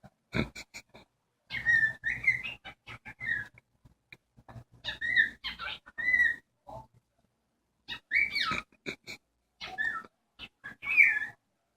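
Excited cockatiel chirping and whistling in short bursts of quick, gliding calls with brief gaps between them.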